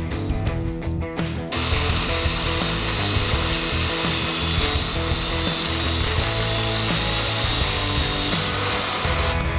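A power tool running steadily for about eight seconds, starting abruptly about a second and a half in and stopping just before the end, over guitar background music.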